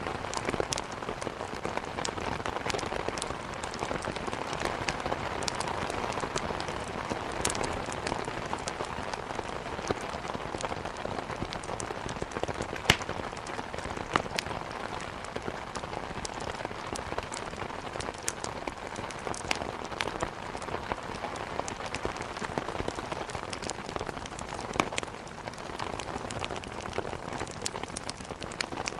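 Steady rain with sharp crackles and pops of wood burning in a fireplace scattered throughout, one louder snap about thirteen seconds in.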